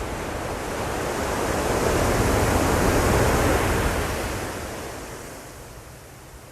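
Ocean wave rushing in: a single surge of surf noise that swells to its loudest around the middle, then fades away.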